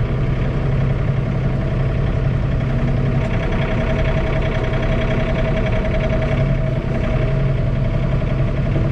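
John Deere 3046R compact tractor's three-cylinder diesel engine running steadily, heard from inside the closed cab.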